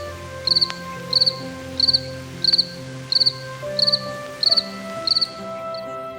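A cricket chirping: short high chirps, each a quick trill of a few pulses, repeating evenly about every two-thirds of a second, with the last one faint near the end.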